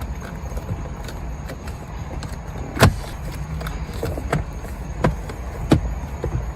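Sharp clicks and knocks of plastic dashboard trim being handled and fitted back in a car, the loudest about three seconds in, over a steady low rumble.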